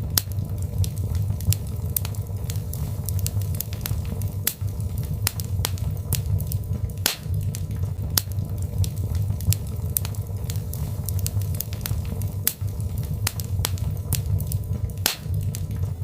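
Birchwood fire crackling: frequent sharp, irregular pops and snaps over a steady low rumble.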